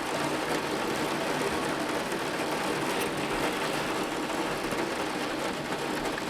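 Torrential rain falling in a dense, steady hiss, with water pouring over gutters that are overflowing under the downpour.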